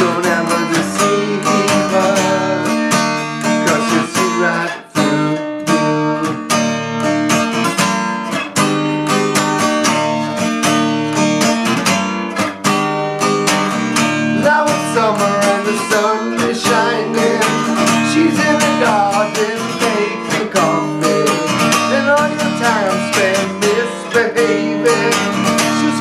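Acoustic guitar strummed steadily through an instrumental break in a folk song. About halfway through, a wordless melody line joins above the chords.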